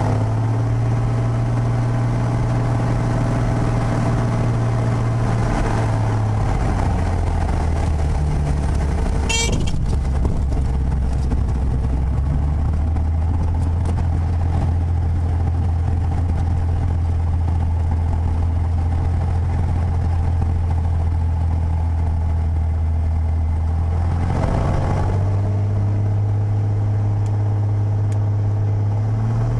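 Piper PA32's six-cylinder Lycoming piston engine running at low power, its note dropping about seven seconds in and picking up again near the end. A short high chirp comes about nine seconds in.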